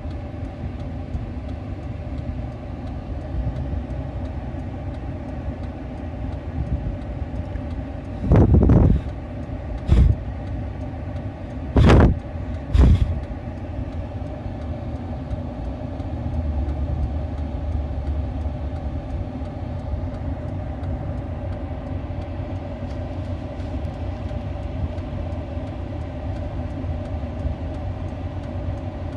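Steady low background rumble with a faint hum, broken by four short, loud bursts of noise between about 8 and 13 seconds in.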